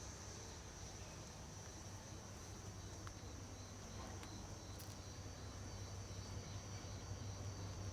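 Crickets chirping steadily, with the faint low rumble of a distant train that grows louder near the end.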